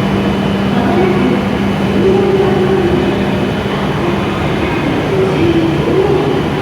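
Steady hum of an E7 series Shinkansen standing at a station platform, with a constant low tone.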